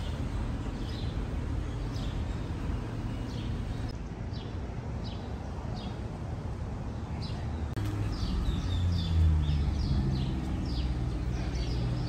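Small birds chirping in short, quick, down-slurred calls over a steady low rumble; the chirps come thick and fast in the second half.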